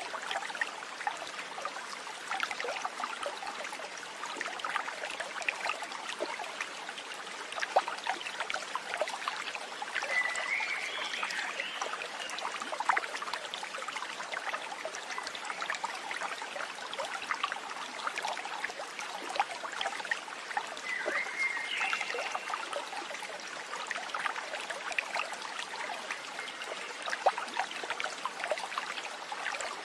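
Water trickling and babbling steadily, like a small stream running over stones, with a short chirp heard twice, about a third and two-thirds of the way through.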